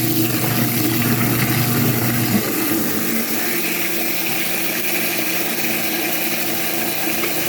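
Twin tub portable washer's wash motor humming steadily as it churns, its tone shifting about two and a half seconds in, over a hiss of water pouring into the tub from a hose.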